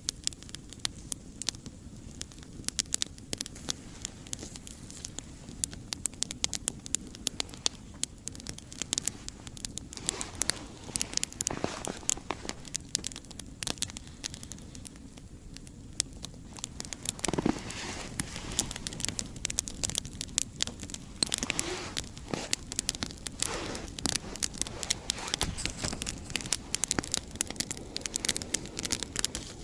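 Wood campfire crackling, with many irregular sharp cracks over a steady low rush.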